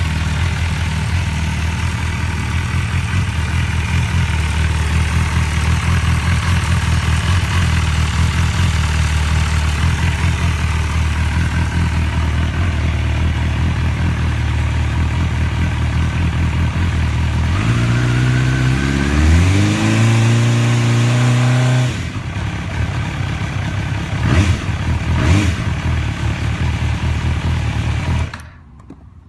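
2004 MV Agusta Brutale 750S inline-four engine idling steadily while warming up after a cold start, then revved up about 18 seconds in, its pitch rising and holding higher for a few seconds before the engine note stops suddenly. After that a lower steady noise remains with two short knocks, and the sound drops away near the end.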